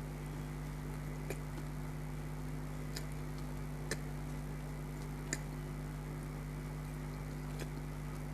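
Eating sounds: about five short, sharp mouth clicks while chewing, spaced irregularly, over a steady low hum.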